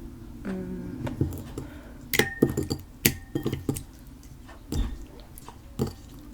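A utensil clinking and scraping against a bowl as slime mixture is stirred. A cluster of sharp clinks comes about two to four seconds in, two of them ringing briefly.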